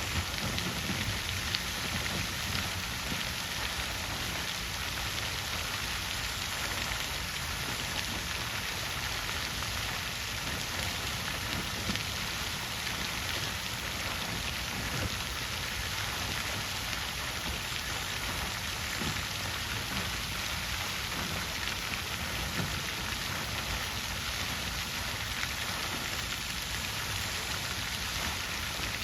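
Water fountain splashing steadily, falling water spattering into its basin.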